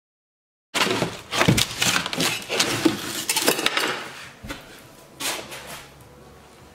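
Metal parts clattering and clinking as they are handled. The sound starts abruptly after a moment of silence, with a quick run of clinks and knocks for about three seconds, then thins to a few separate clicks.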